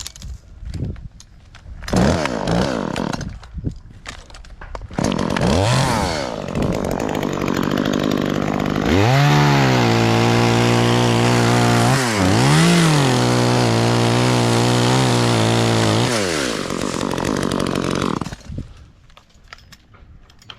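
Chainsaw revved in short bursts, then held at high speed for about seven seconds with one brief drop in pitch, before winding down and stopping near the end.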